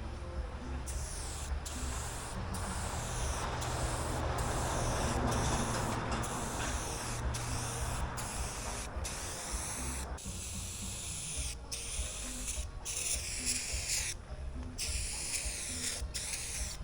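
Aerosol spray-paint can hissing as paint is sprayed, in a run of sprays broken by short pauses about once a second.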